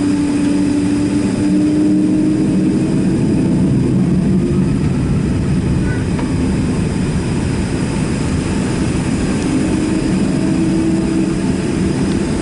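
Steady jet-engine drone of a Boeing 767-300ER heard inside the passenger cabin, with a constant low hum carrying a couple of steady tones that barely shift in pitch.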